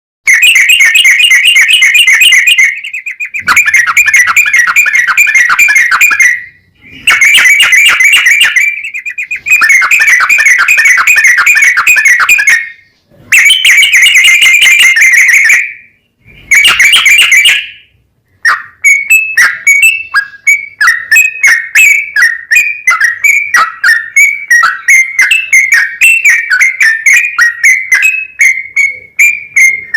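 Loud, clipped recording of a trucukan (yellow-vented bulbul) singing: rapid trilling phrases a few seconds long separated by short pauses, then, from about halfway in, a run of separate quick downward-sliding notes, about three a second.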